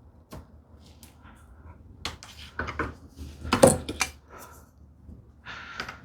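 Irregular knocks and clatters of small wooden pieces and hand tools being handled and set down on a workbench, the loudest about three and a half seconds in.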